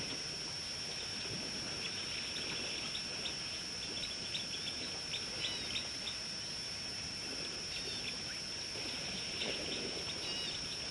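Small birds chirping in short, scattered calls over an outdoor background of hiss and a steady high-pitched hum.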